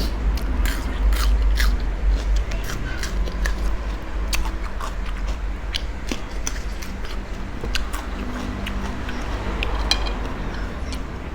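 A person eating spicy seafood papaya salad: chewing and crunching with many scattered sharp clicks and crackles, over a steady low rumble.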